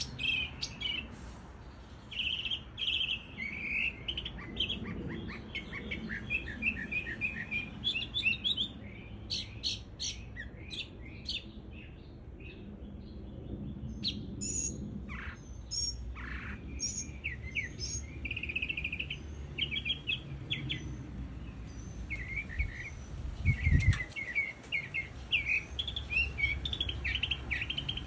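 A northern mockingbird (Cuban sinsonte) singing a long string of short, varied chirping phrases, each repeated a few times, with some sharp clicky notes in the middle. There is a single low thump about three-quarters of the way through.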